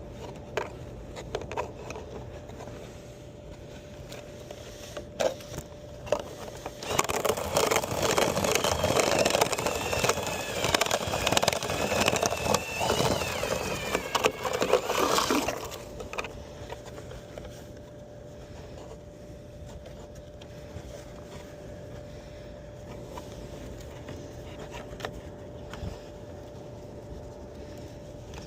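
Dryer vent cleaning equipment running loudly with a scraping, whirring sound for about eight seconds, starting about seven seconds in and cutting off, over a faint steady hum.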